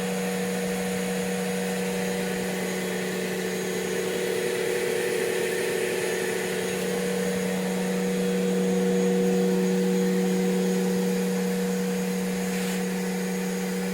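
Atlant washing machine running: a steady motor hum that swells slightly a little past the middle.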